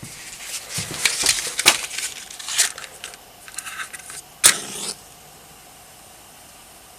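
Small clicks and rustling of handling, then a match struck on its box with a sharp scrape about four and a half seconds in, flaring with a brief hiss as the wood stove is lit.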